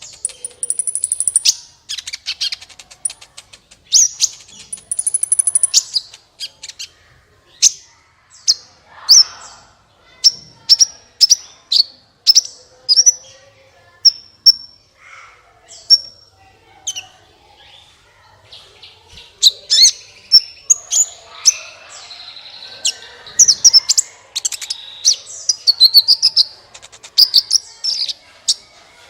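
Sunbird (the bird sold in Indonesia as 'kolibri') singing a loud, high-pitched song of sharp chirps and short trills, denser and more chattering in the last third.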